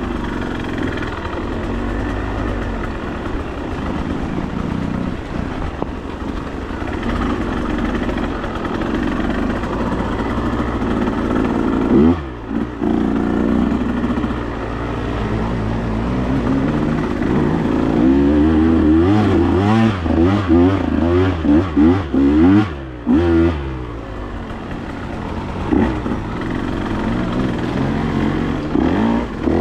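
Off-road vehicle engine running under way on a slick trail, the throttle rising and falling repeatedly through the second half, with brief dips when the throttle comes off.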